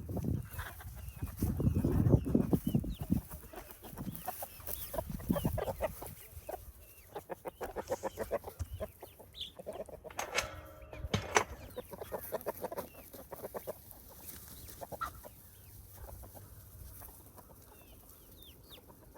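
A flock of backyard chickens clucking and chirping around feed. Loud handling noise comes in the first few seconds, and rapid ticking around the middle.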